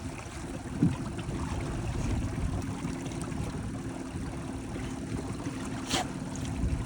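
Steady low hum of a boat's motor under water and wind noise, with a brief sharp splash or knock about six seconds in.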